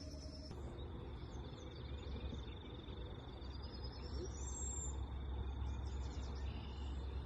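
Outdoor birdsong ambience: a continuous high-pitched trill runs throughout, and one rising whistled bird call comes about four seconds in, over a low rumble. About half a second in, a higher trill cuts off abruptly.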